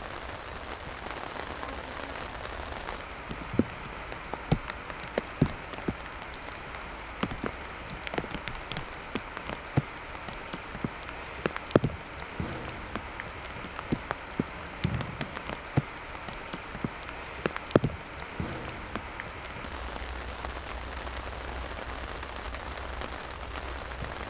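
Steady heavy rain, with scattered sharp taps and knocks from about three and a half seconds in until about nineteen seconds.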